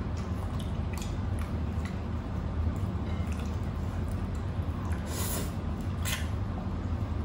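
Close-up wet eating sounds: soft chewing and squishing of beef and vegetables eaten by hand, with scattered small clicks and two louder wet smacks about five and six seconds in, over a steady low hum.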